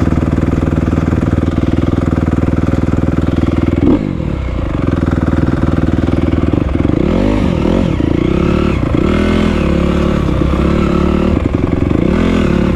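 Honda CRF250R dirt bike's single-cylinder four-stroke engine idling steadily, then revved up and down several times in the second half.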